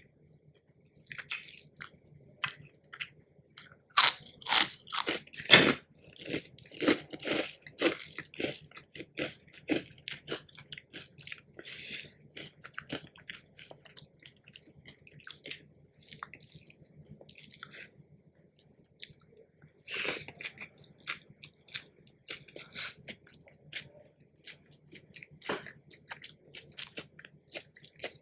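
Close-miked eating: crunchy bites and chewing, a run of loud crisp crunches about four to six seconds in, more chewing, and another loud crunch around twenty seconds in.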